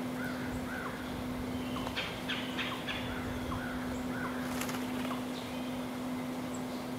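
Small birds calling: scattered short chirps, with a quick run of sharp notes about two seconds in, over a steady low hum.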